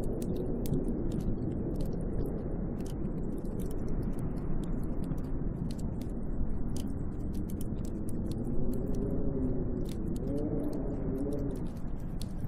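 Snowstorm wind blowing steadily with a low rush, starting to howl in wavering rising and falling tones in the later part. Scattered faint ticks run through it throughout.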